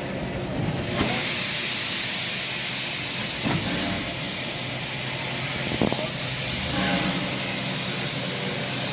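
Steam locomotive venting steam: a loud, steady hiss that starts suddenly about a second in and holds without a break.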